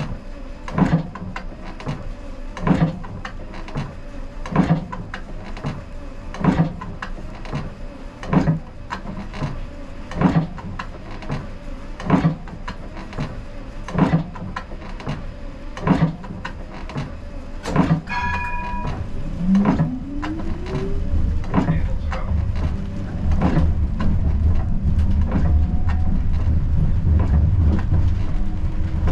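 Siemens Combino tram heard from the driver's cab: a sharp tick repeats about every two seconds, then a short beep sounds. A rising whine follows from the traction drive as the tram pulls away, and the low rolling rumble of the tram grows louder toward the end.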